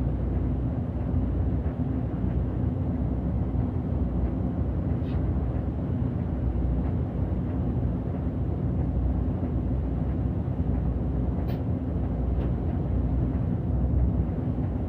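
City bus diesel engine and road noise heard from inside the bus while it drives, a steady low drone with a few faint clicks.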